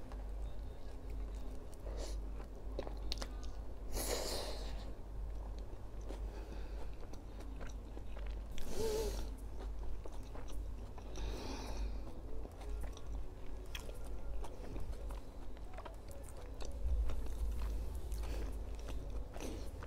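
A person biting into and chewing a soft tuna sandwich at close range, with small wet mouth clicks. There are a few louder, noisier moments about four, nine and eleven seconds in.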